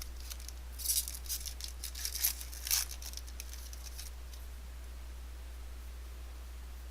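A foil 2013 Bowman Football trading-card pack being torn open, its wrapper crinkling in a string of sharp rips and rustles for about three seconds. After that only a steady low hum remains.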